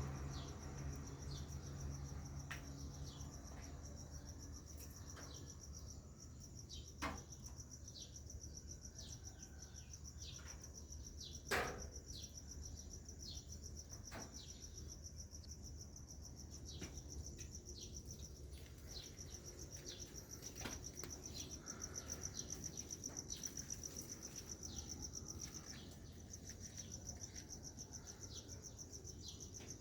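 A steady, high-pitched, pulsing insect trill like a cricket's, with many short falling bird chirps over it. Two sharp clicks sound about four and a half seconds apart.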